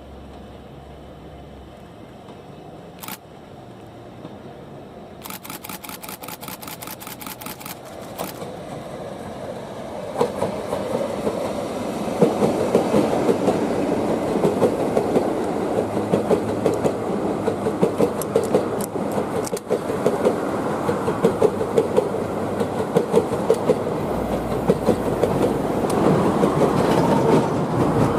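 An electric locomotive hauling a Tobu 9000-series train passes. It grows louder from about ten seconds in, with the wheels clattering rhythmically over the rail joints. Earlier there is a single click, then a rapid burst of camera shutter clicks.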